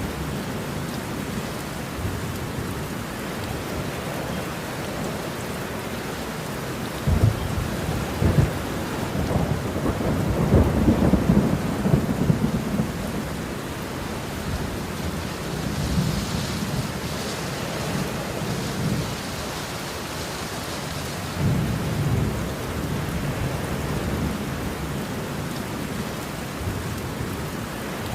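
Steady rain with rolling thunder: a loud rumble with sharp cracks comes about a quarter of the way in, and softer rumbles follow later.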